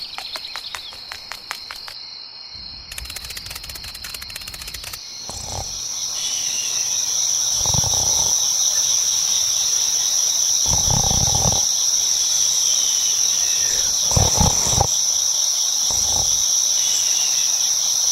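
Night ambience of crickets chirring steadily, growing louder about five seconds in, with rapid clicking in the first few seconds. An owl hoots several times, a couple of seconds apart.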